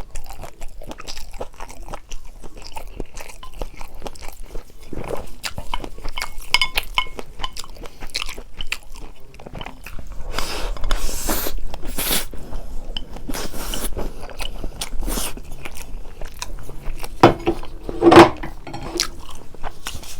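Close-miked eating sounds: chewing and biting of food, made up of many short wet clicks with a few longer noisy stretches, and one brief louder sound about two seconds before the end.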